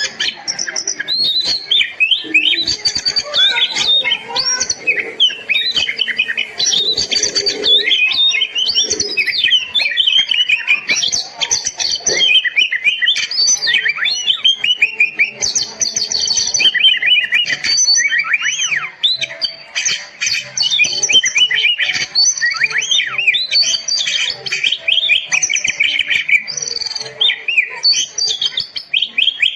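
Oriental magpie-robin singing a long, varied song of quick whistles, chirps and rising and falling notes, with only brief breaks.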